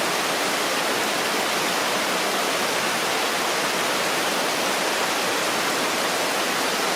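Shiwagara Falls pouring: a steady, unbroken rush of falling water.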